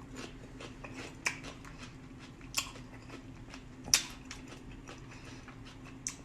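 Close-up chewing and crunching of cucumber dipped in sauce, with a few sharp crunches about 1.3, 2.6, 4 and 6 seconds in and small wet clicks between, over a faint steady hum.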